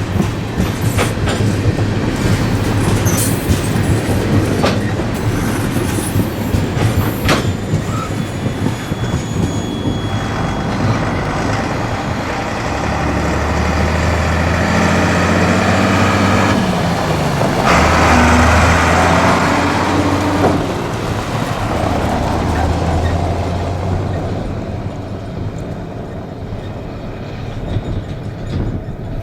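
Freight train rolling past, its wheels clicking over rail joints. A diesel locomotive's engine drone swells about halfway through, then the sound fades toward the end.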